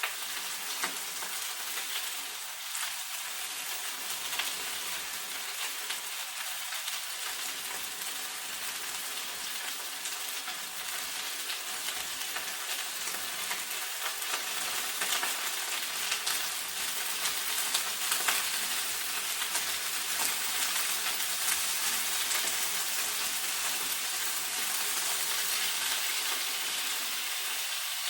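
Chicken wings sizzling and crackling as they shallow-fry in hot cooking oil in a pan, browning before the braise. A dense, steady crackle that grows a little louder about halfway through.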